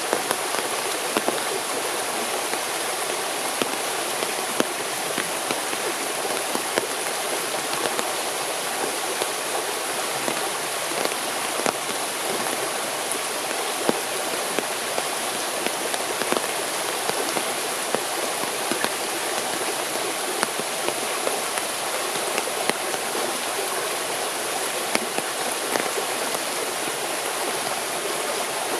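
Water running steadily, a continuous rush with many small splashes scattered through it.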